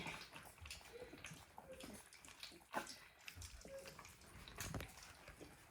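Faint wet lapping and smacking of three-week-old mastiff puppies eating a soft gruel of dog food and goat milk from a bowl, with scattered small clicks.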